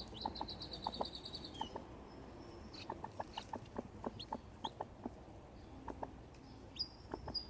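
Mother hen softly clucking, short clucks every fraction of a second, with a few faint high peeps from newly hatched chicks. A fast, high bird trill comes in twice, just after the start and near the end.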